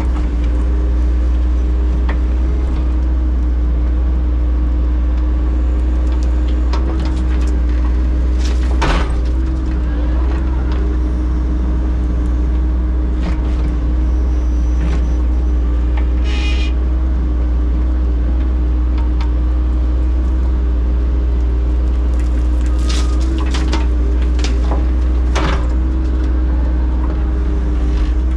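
Engine of heavy construction equipment running steadily at a constant speed, with scattered short knocks and clanks.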